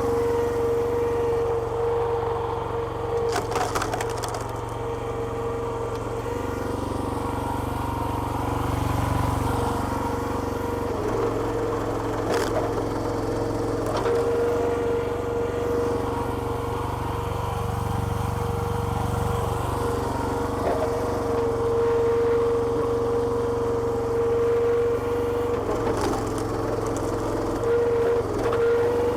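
Small petrol engine running the hydraulic pump of a homemade log splitter, with a steady high whine, its note shifting now and then as the ram works. A few sharp cracks of wood splitting come through, about three seconds in, near the middle, and near the end.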